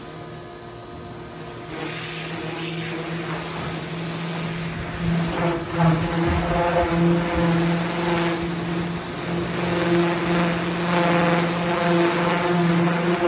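VEVOR pressure washer running with a steady hum, its spray hissing against the truck's body; the spray noise comes in about two seconds in and gets louder from about five seconds in.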